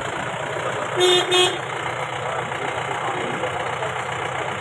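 Vehicle horn sounding two short beeps in quick succession about a second in, over a vehicle engine running steadily.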